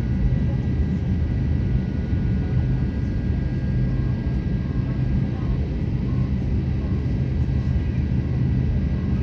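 Cabin noise inside an Airbus A350-900 airliner: a steady rumble with a thin, constant whine from its Rolls-Royce Trent XWB engines running.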